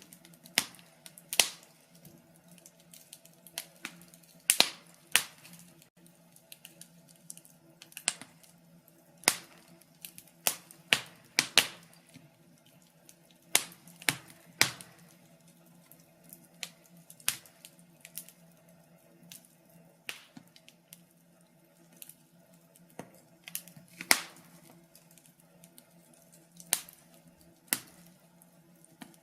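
Wood fire in a fireplace crackling: irregular sharp pops and snaps, sometimes several close together and sometimes a second or more apart, over a faint steady low hum.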